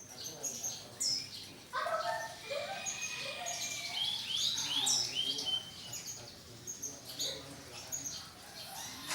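Canaries singing and chirping, several birds at once, with quick trills and whistled notes overlapping throughout.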